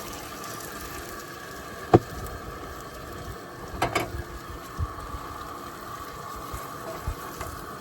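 Steak and potatoes sizzling steadily in a frying pan on a propane barbecue, with a sharp knock about two seconds in and a few smaller knocks around four seconds in.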